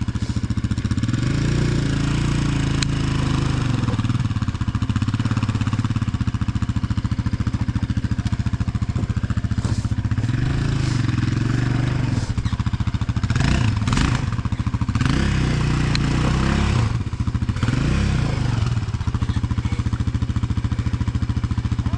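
Yamaha Banshee's two-stroke parallel-twin engine idling, blipped up in pitch several times by the throttle and dropping back to idle between, with a few brief clattering knocks about two-thirds of the way through.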